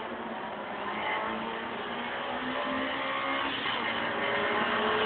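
A car engine running steadily and growing gradually louder.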